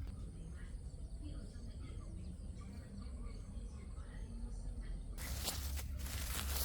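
An insect's steady, high, unbroken buzz over a low rumble. About five seconds in, the buzz stops and loud rustling, crackling noise takes over.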